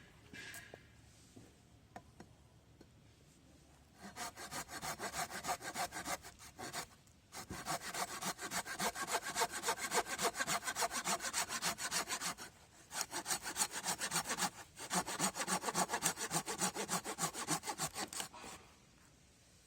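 Hand saw cutting through wood with quick back-and-forth strokes. The sawing starts about four seconds in and runs in four spells with brief pauses between them.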